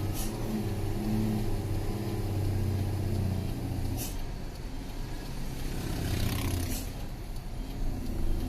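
Truck engine running steadily in second gear on a steep downhill, holding the truck back. Two short high hisses, right at the start and about four seconds in, and the engine's tone shifts at about the same point.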